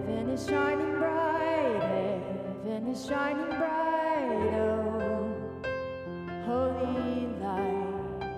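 A slow, tender song: a singing voice holding and gliding between notes over soft electric piano accompaniment.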